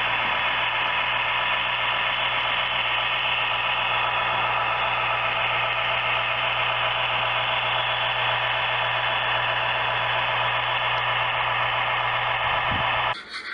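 DCC sound decoder in an HO scale model diesel locomotive playing a steady diesel engine idle through its small onboard speaker. The sound cuts off abruptly near the end.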